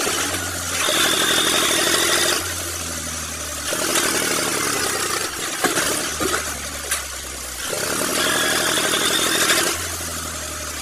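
John Deere 5310 tractor's diesel engine running under load while pulling a loaded trolley, its note rising and falling as the load changes.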